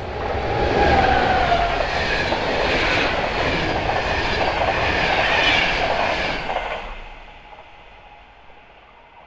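Electric locomotive-hauled passenger train passing at speed: a loud rush of wheel and rail noise with a brief high whine about a second in. It fades away over the last few seconds.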